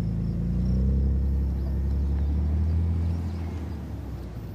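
Car engine running as a convertible is driven, a steady low drone that peaks about a second in and gradually eases off toward the end.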